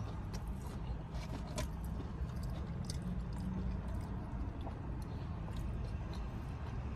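Close-up eating sounds: chewing and biting into crunchy breaded boneless chicken wings, scattered short crunches and mouth clicks over a steady low hum.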